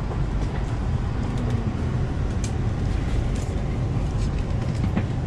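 Steady low rumble and hum of the interior of an ETS electric train coach, with a few faint clicks.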